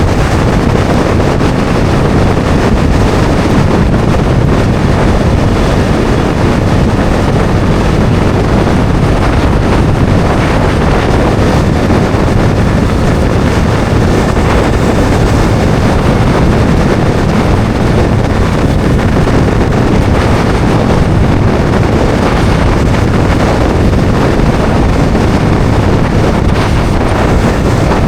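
Steady, loud wind rush over the microphone while a Bajaj Dominar 400 is ridden at road speed, its single-cylinder engine running underneath.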